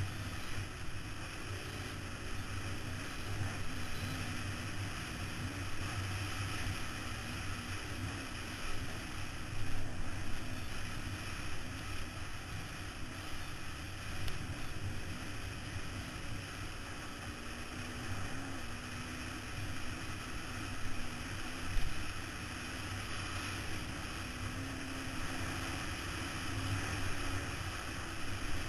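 Off-road motorcycle engine running hard, its pitch wavering up and down with the throttle, under steady wind rush on a helmet-mounted camera. A few louder thumps stand out, about ten seconds in and again past twenty seconds.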